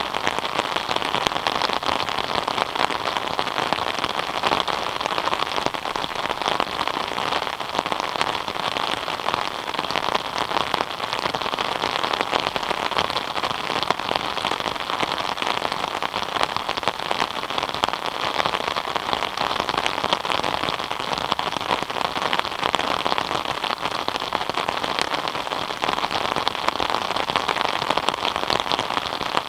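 Steady rain falling, a dense, even patter of countless drops that does not let up.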